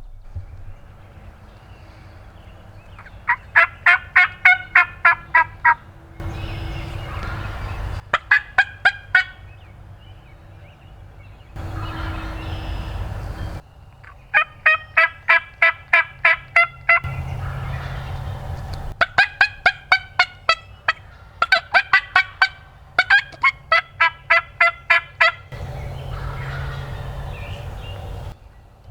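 Turkey yelping in six runs of rapid, evenly spaced rasping notes, about four or five a second, with short stretches of steady rushing noise between some runs.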